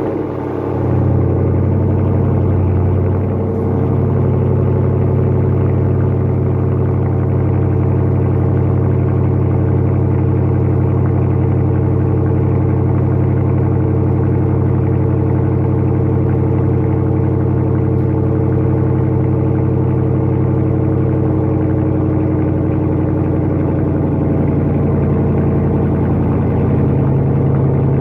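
5.7 Hemi V8 idling steadily just after a cold start, heard through an active exhaust with Dynomax mini race bullet mufflers.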